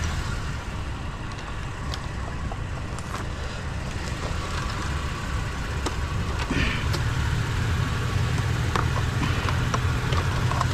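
A vehicle engine running steadily with a low hum that grows a little stronger about six and a half seconds in, with a few light clicks and knocks.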